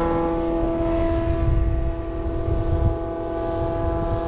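Single-engine propeller light aircraft flying away after a low pass, its engine drone steady in pitch and slowly growing fainter, over a low uneven rumble.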